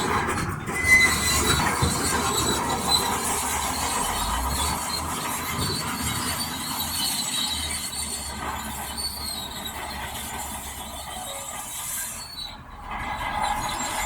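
Heavy earthmoving machinery working rock: an engine running low under a steady, high metallic squealing and grinding. The sound drops away briefly near the end.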